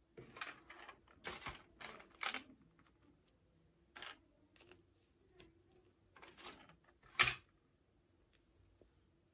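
Hands handling small plastic toy packaging and pieces: a run of short rustles and clicks, bunched in the first two and a half seconds, then sparser, with one sharp, loud click a little after seven seconds.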